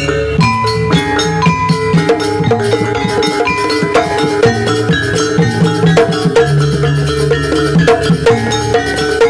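Live Javanese gamelan-style percussion music for a jaranan dance: drums and struck tuned metal percussion playing a busy, steady rhythm over a low sustained tone.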